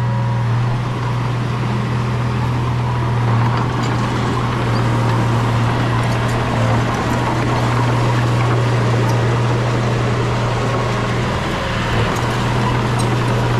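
Heavy diesel engine of a working bulldozer running steadily under load, a loud, even low drone with faint scattered clicks.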